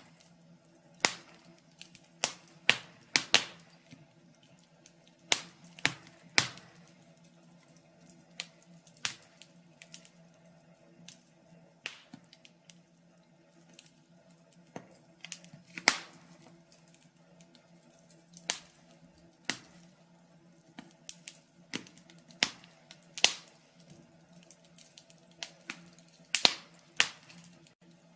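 Log fire crackling: sharp pops and snaps at uneven intervals, about one a second, over a faint low hum.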